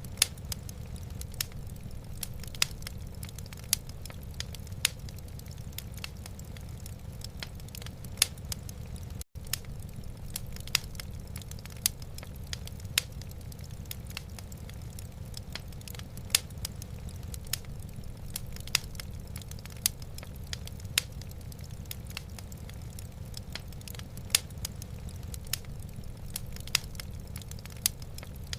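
Wood fire burning in a fireplace: sharp crackling pops about once a second over a steady low rumble, with a brief drop-out about nine seconds in.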